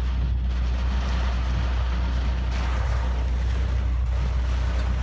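Inside a car's cabin: a steady low drone from the car, with typhoon-force wind rushing against the body in gusts that swell about halfway through.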